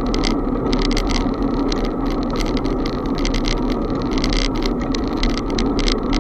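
Steady rushing wind and road noise on the microphone of a camera riding along on a moving bicycle, with many quick irregular clicks and rattles.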